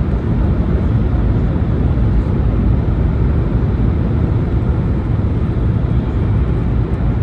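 Shinkansen train running: a steady low rumble with rushing noise that stays level throughout.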